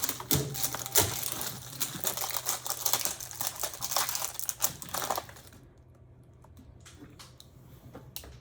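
Packing material and printer parts being handled during unboxing: dense rustling and clicking for about five seconds, then only a few scattered clicks, over a faint steady low hum.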